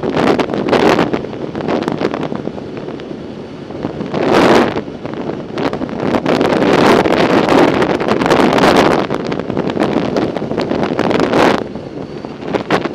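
Wind buffeting the microphone of a camera carried on a moving bicycle: a loud rushing noise that surges and eases irregularly every second or two.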